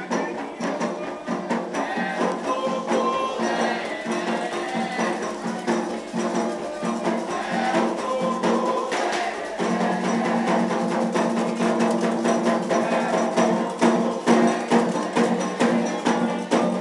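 Candomblé ritual music: voices singing over hand drums and a struck bell keeping a steady rhythm. The singing grows stronger about ten seconds in.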